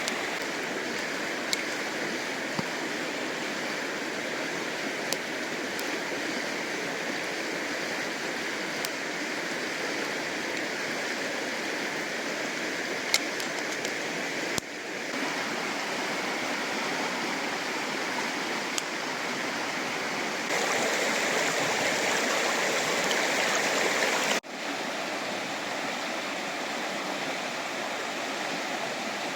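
Fast-flowing river rushing steadily, with a few sharp clicks scattered through. The sound changes abruptly about halfway, gets louder for a few seconds later on, then drops back suddenly.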